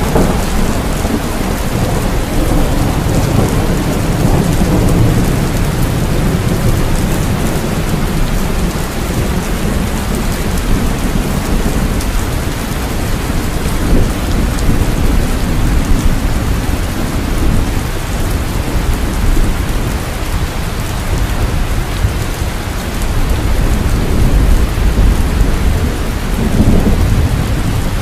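Steady heavy rain falling, with low rolling thunder swelling and fading underneath, strongest early on and again near the end.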